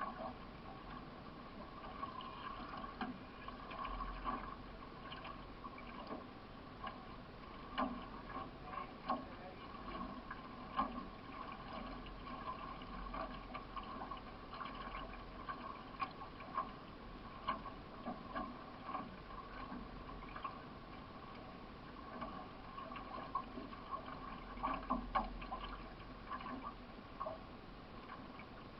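Solo racing canoe being paddled: paddle strokes through the water, with short knocks and splashes about every one to two seconds.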